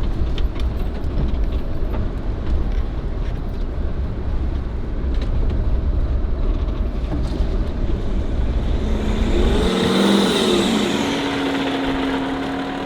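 BMW 530d's diesel engine running with a heavy low rumble; about ten seconds in the rumble drops away, the engine pitch rises and falls, and a steady hum follows.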